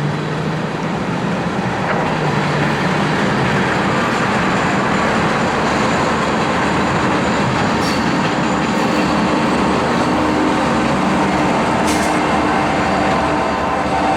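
Two SD40-2 diesel-electric locomotives working hard under power, their EMD two-stroke V16 engines giving a steady loud drone mixed with rail and wheel noise.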